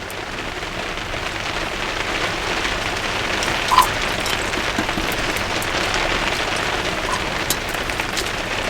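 Heavy rain, heard from inside a garden studio: a steady, dense hiss with scattered sharp drop ticks, swelling a little over the first couple of seconds.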